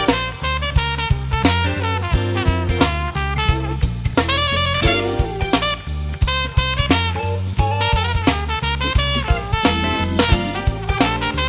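Jazz-funk band playing: saxophone and brass lines over a steady drum beat and bass.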